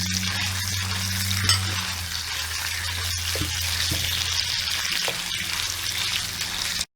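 Food sizzling in hot oil in a pan while being stirred, with a few light utensil clicks against the pan. The sound cuts out abruptly just before the end.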